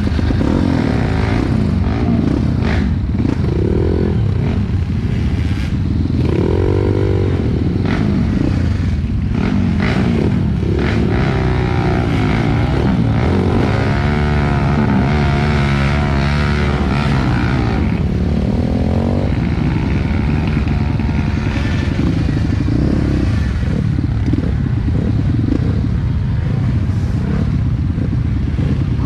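Dirt bike engine revving up and down repeatedly, with scattered clattering knocks.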